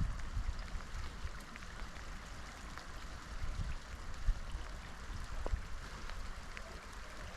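Steady rush of flowing water from a mountain stream, with wind buffeting the microphone in low gusts, strongest near the start.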